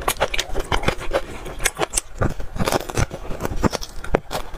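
Close-miked eating of a spicy braised beef marrow bone: wet smacking, sucking and chewing as the bone is gnawed, heard as many sharp irregular clicks and crackles.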